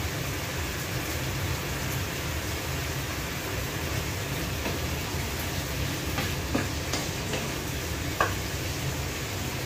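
Chicken and vegetables for chop suey frying in a pan on a gas burner, a steady sizzle, with a few knocks of a wooden spatula against the pan; the sharpest knock comes about eight seconds in.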